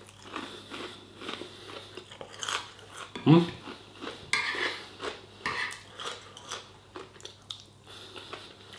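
A person chewing and crunching food at close range, with small clicks of cutlery on a plate. About three seconds in there is a short hummed sound from the eater.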